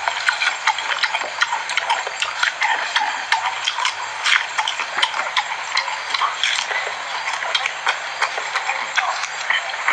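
Close-up eating sounds of a person chewing mango: a steady run of irregular wet chewing and lip-smacking clicks.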